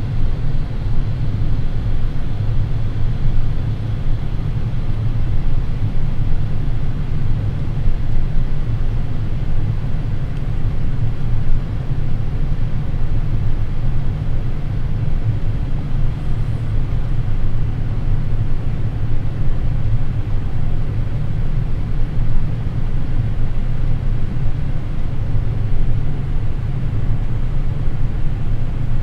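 Steady low rumble of airflow and engine noise inside a Boeing 787 flight deck on final approach.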